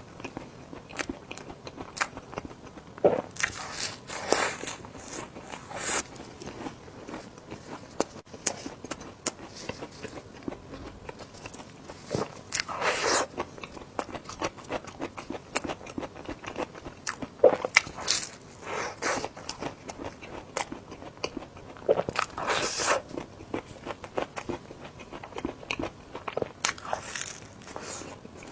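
Close-miked eating: a person bites and chews desserts, with many short wet clicks and several louder bites spread through.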